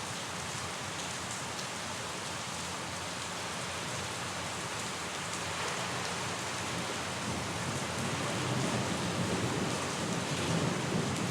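Steady rain falling, with a low rumble of thunder building up in the second half.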